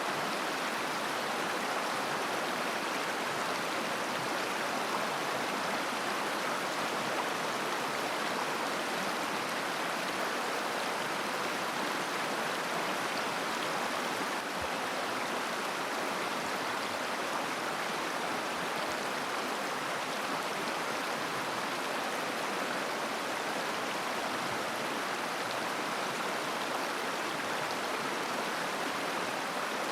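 A shallow mountain river babbling over stones: steady, even rushing and burbling of flowing water.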